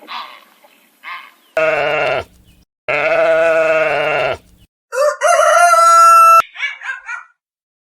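A sequence of farm-animal calls. It opens with a couple of short harsh calls, then two long, wavering bleats, then a rooster crowing that is cut off abruptly, followed by a few short calls.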